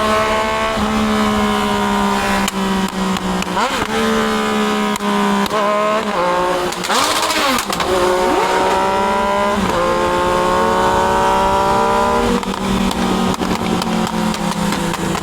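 Triumph Daytona 660's inline three-cylinder engine pulling hard, its pitch climbing in each gear and dropping at each upshift, several times over. A brief rush of noise cuts in about seven seconds in.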